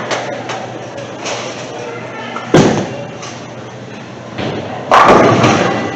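A Lord Field Blizzard Frozen solid bowling ball lands on the lane with a sharp thud, then about two seconds later hits the pins, which crash and clatter for about a second. Faint chatter runs underneath.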